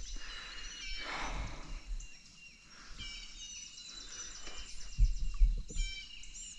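Songbirds singing in the woods, several high repeated chirping and trilling phrases overlapping. Two low thumps about five seconds in.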